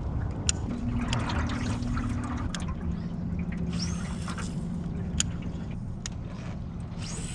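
Small boat motor on a jon boat running steadily at trolling speed, its hum dropping in pitch about two and a half seconds in, with water sloshing around the hull and a few sharp clicks.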